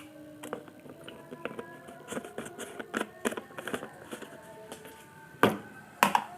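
Small clicks and taps of tools being handled on a workbench, with two louder sharp knocks about half a second apart near the end.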